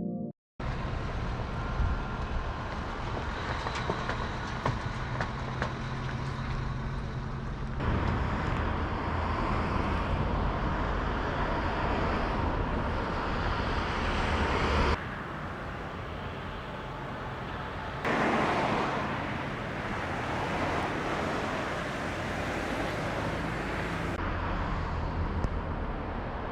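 Road traffic noise: a steady roar of passing cars, broken by several abrupt changes in level and tone.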